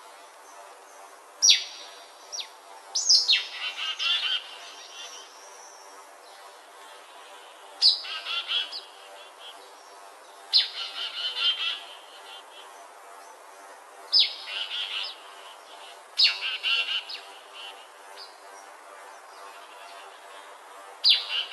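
A songbird singing short, repeated phrases, each opening with a sharp downward-sweeping note and running into about a second of rapid warbling, about seven times with pauses of a few seconds between.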